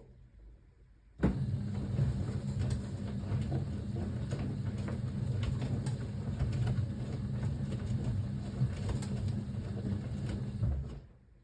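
Siemens WA4600 washing machine's motor starting about a second in and turning the drum, wet jeans tumbling with a steady low hum and scattered knocks, then stopping near the end: one tumble phase of the wash cycle.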